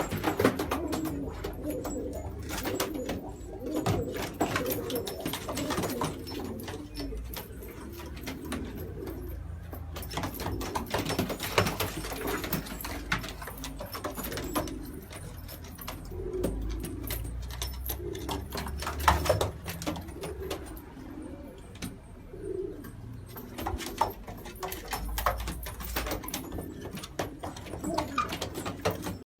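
Domestic pigeons cooing continuously in a loft, several birds overlapping, with scattered sharp clicks and knocks among them.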